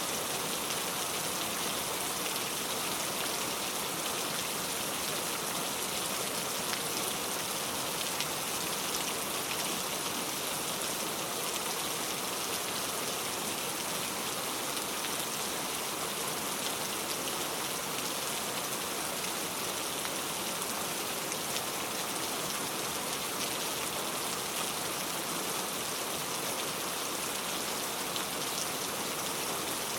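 Steady rain falling: an even, unbroken hiss of many drops, with fine ticks of individual drops.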